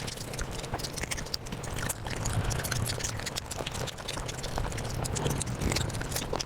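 Close-miked eating sounds of rice and curry played back at several times normal speed: chewing and mouth smacks run together into a dense, rapid clicking over a steady low hum.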